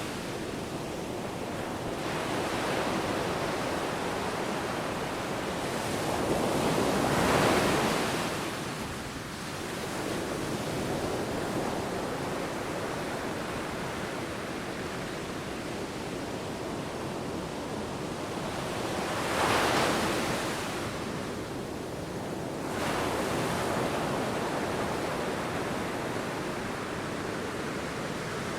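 Ocean surf: a steady wash of sea waves with two louder waves breaking, about seven seconds in and again near twenty seconds.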